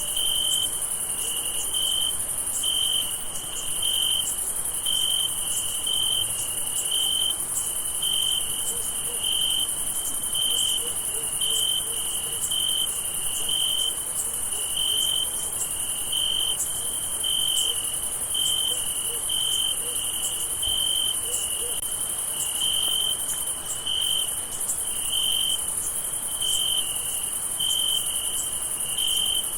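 Crickets chirping at night: a regular, steady chirp repeating about one and a half times a second, over a continuous high-pitched insect trill.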